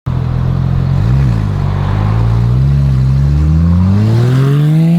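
Porsche 992 GT3 RS flat-six through an iPE titanium full exhaust, running steadily with a quick blip about a second in, then revs climbing smoothly from about halfway.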